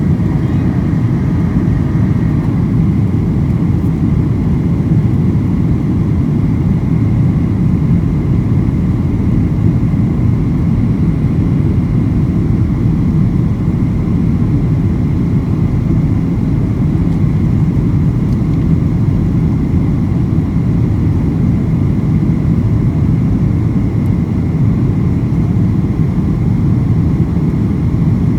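Steady low rumble inside the cabin of a Boeing 737-800, from its CFM56 engines and the airframe, unchanging throughout.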